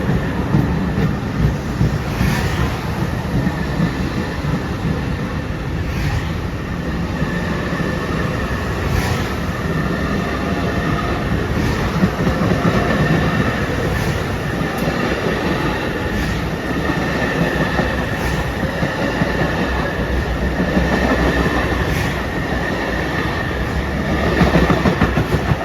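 Long Island Rail Road M3 electric multiple-unit train rolling past with a steady heavy rumble. Its wheels click sharply over rail joints every few seconds, and a steady high whine runs through the middle of the pass.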